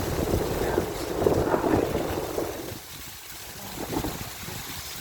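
Heavy rain pouring down in a storm, with wind buffeting the microphone. It is louder for the first couple of seconds, then eases off.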